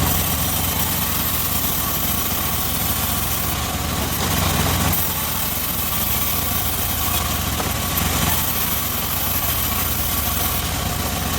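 Engine of a homemade circular-saw rig running steadily with a low, even hum.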